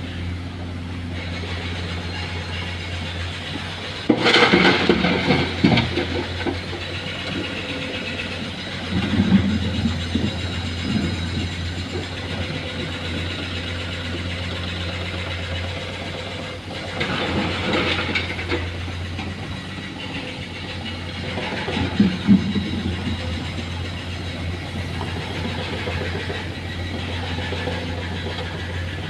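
Komatsu excavator's diesel engine running steadily, with about four short bursts of knocking and clatter from the breaker working the rock.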